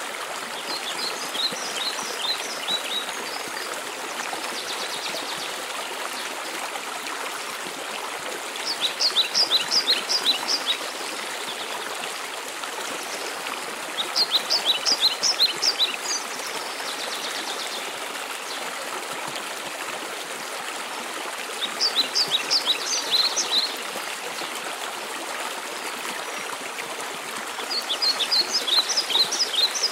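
Steady rush of a waterfall, with a small songbird repeating a quick run of high, sharp notes about every six seconds, five times.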